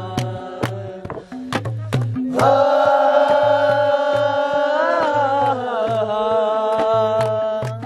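Nepali folk song: a voice holds one long, drawn-out note, starting about two seconds in and bending in pitch midway, over a steady hand-drum beat.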